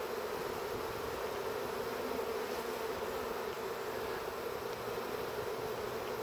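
A swarm of honey bees buzzing: a steady, even hum with no break.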